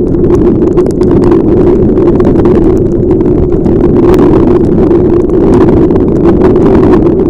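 Loud, steady, muffled rumble of wind and motorcycle riding noise picked up by a helmet-mounted camera microphone in heavy rain, with many sharp ticks scattered through it, typical of raindrops striking the helmet and camera.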